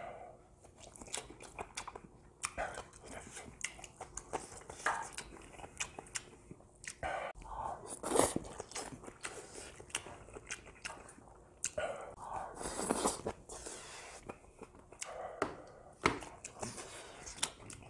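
A person chewing a mouthful of fried rice with beef intestines, close on a clip-on microphone, with many short wet mouth clicks and smacks. A louder smack comes about eight seconds in.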